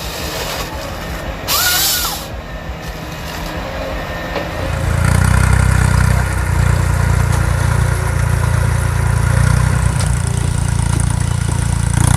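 Diesel engine of a forestry machine running, growing markedly louder and steadier about five seconds in.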